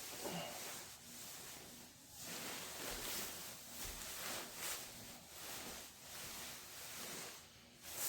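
Sleeping bag fabric rustling and rubbing in soft, uneven swells as a person shifts and settles inside it.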